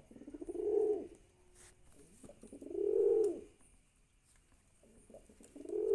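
Domestic pigeon cooing: three coos about two and a half seconds apart, each rising and falling in pitch over about a second.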